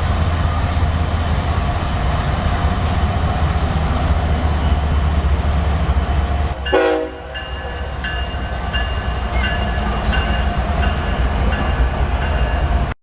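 Diesel freight locomotives and their train passing with a heavy low engine rumble. About six and a half seconds in, the sound changes abruptly, with a brief horn-like note, and then steady high tones ride over the rolling train with light rail clicks.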